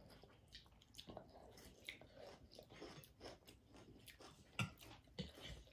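Faint close chewing and biting of food, a run of small irregular mouth clicks and crackles with a somewhat louder click about four and a half seconds in.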